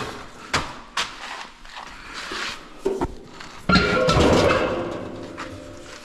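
Knocks and clunks of hard objects being handled: a few sharp knocks, then a louder, ringing clatter a little before four seconds in that tapers off.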